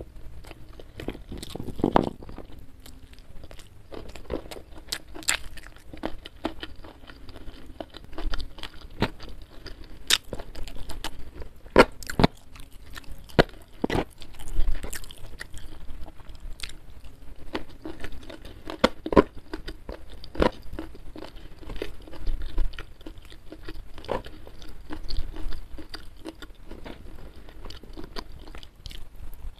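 Close-miked eating: steady chewing with frequent sharp, irregular crunches, from a meal of rice, fried chicken and raw petai beans.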